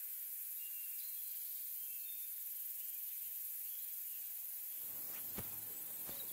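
Steady high hiss with a few faint short high chirps, and a soft low rumble and a click near the end.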